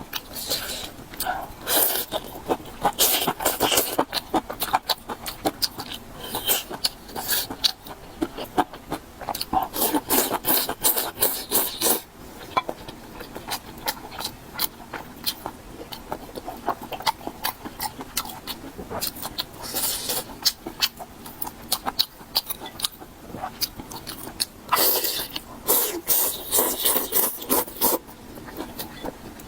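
Close-miked eating: wet chewing and crunching of food with mouth clicks and smacks, coming and going in spells of louder crunching.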